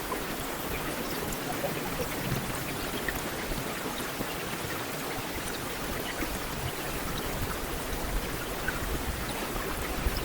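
Heavy rain falling steadily on a street, a dense even hiss dotted with faint individual drop patters.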